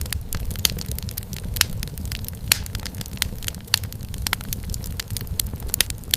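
Wood fire crackling in a fireplace: irregular sharp pops and snaps several times a second over a steady low rumble of the flames.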